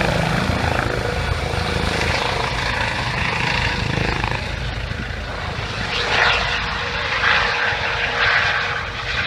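Helicopter in flight: rotor and engine noise beating low and steady, thinning out after about four seconds.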